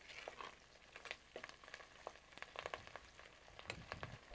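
Onions, curry leaves and spices frying in oil in a clay pot: faint sizzling with many small, irregular crackles, stirred with a metal spoon.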